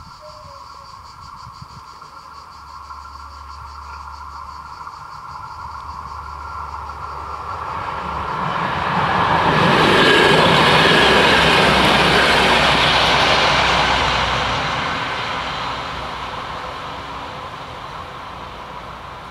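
Level crossing bells ringing steadily while a Fiat ALn 663 diesel railcar approaches and runs over the crossing. The train grows loud and is loudest around ten to fourteen seconds in, then fades away as it leaves.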